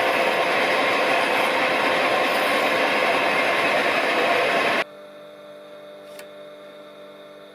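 Smart & Brown model A lathe running while turning a brass spigot, a steady machine noise with a faint constant tone. It cuts off suddenly about five seconds in, leaving a quiet steady electrical hum.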